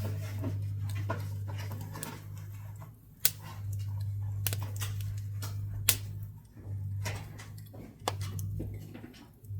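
Pine scrap wood crackling and popping in a wood-burning stove, with scattered small ticks and two loud sharp pops about three and six seconds in, over a low hum that comes and goes.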